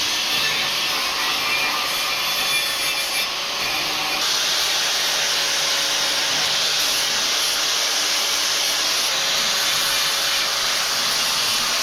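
Angle grinder cleaning up freshly cut steel pieces to get them ready for welding: a steady grinding rasp that grows brighter about four seconds in.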